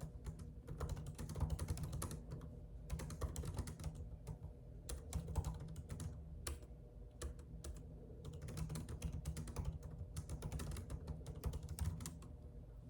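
Typing on a computer keyboard: rapid, irregular runs of key clicks with short pauses between them, over a low steady hum.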